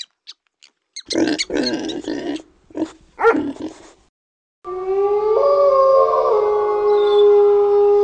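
Short squeaks and rough, noisy animal grunts, then after a brief pause a long canine howl that sets in about halfway through and holds steady, with several voices howling together.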